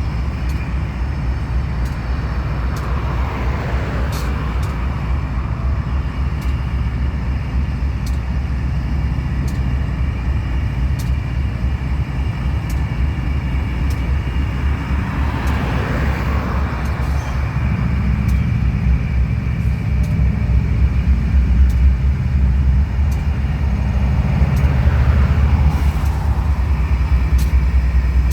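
Heavy, steady low rumble of a loaded freight train rolling past, growing louder about two-thirds of the way in, with faint ticks about once a second. Road vehicles pass by three times over it.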